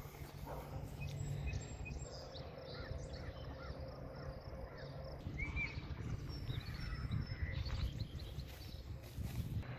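Outdoor background noise with a steady low rumble and faint, scattered bird chirps.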